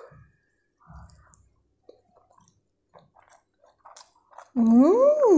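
A person chewing a mouthful of Maggi noodle pizza, with faint, soft mouth sounds. Near the end comes a loud voiced sound of delight that rises and then falls in pitch.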